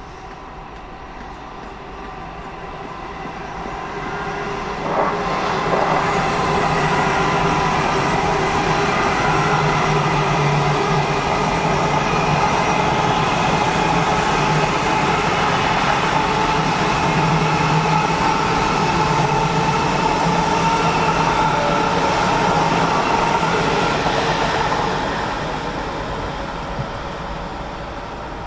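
ICE high-speed train running through the station at speed. A rush of wheel and air noise with a steady whine builds over the first few seconds, holds loud for about twenty seconds, and fades near the end. A sharp click sounds about five seconds in.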